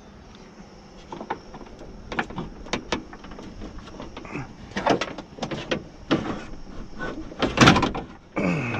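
Irregular knocks, clanks and scrapes of a metal window regulator and track being worked loose inside a car door shell. The loudest clatter comes about three-quarters of the way through.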